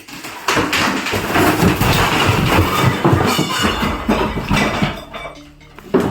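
A ceiling collapsing: a long clattering crash of many impacts as debris comes down, busiest in the middle and thinning to scattered knocks near the end.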